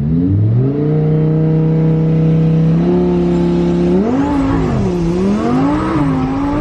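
Engine of a twin-turbo Lamborghini Huracán, a 5.2-litre V10, running under way. Its note climbs over the first second and holds steady, steps up near three seconds, then falls and rises again a few times near the end.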